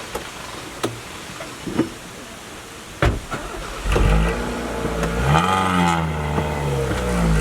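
A few sharp clicks or knocks, then about four seconds in a motor vehicle engine starts running and revs, its pitch rising and falling.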